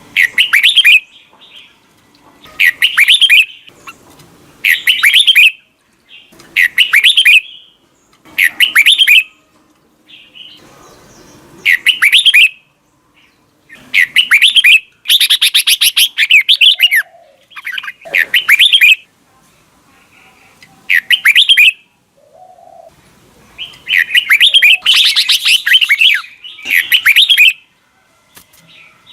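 Red-whiskered bulbul singing loud, short warbled phrases about every two seconds, with longer runs of song partway through and again near the end.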